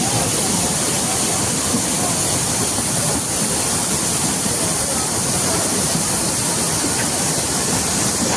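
Floodwater rushing, a loud, steady noise without a break.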